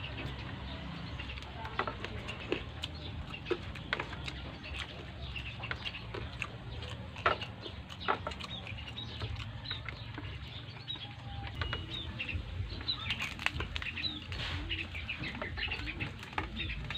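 Eating noises: scattered clicks and smacks of chewing and handling food over a low steady hum. A run of short, high chirps comes about three quarters of the way through.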